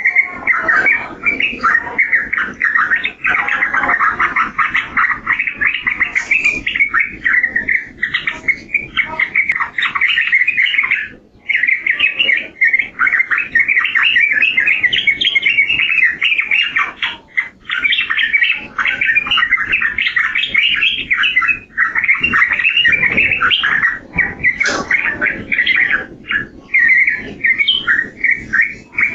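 Yellow-vented bulbul (trucukan) singing in long runs of rapid, bubbling chattering phrases, with short pauses about a third and two-thirds of the way through.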